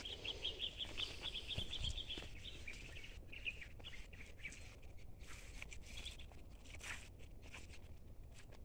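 Songbird calling: a fast run of high chirps over the first two seconds, then a few scattered shorter chirps, over a steady low rumble.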